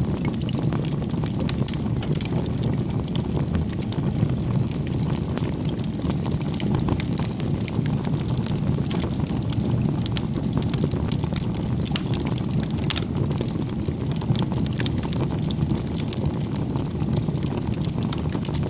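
Wood fire burning: a steady low rushing sound with frequent small crackles and pops scattered through it.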